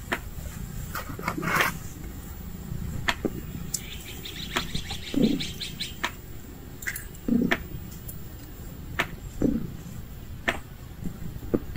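Small birds chirping, with a quick trill about four seconds in, among scattered sharp clicks and a few short low sounds.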